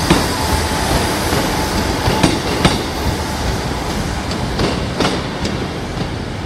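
Class 158 diesel multiple unit pulling away over the rails, with its diesel engine and wheels running and sharp clicks from the wheels over rail joints and points. A wheel squeal dies out in the first half-second, and the sound gets gradually quieter as the train recedes.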